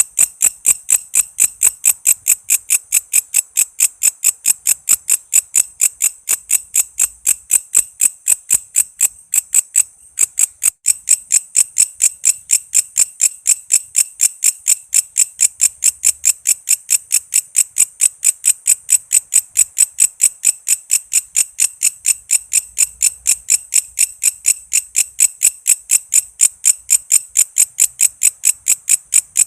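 Walang kece, an Indonesian singing insect, calling: an even train of short, high-pitched chirps, about three a second, with a brief break about ten seconds in.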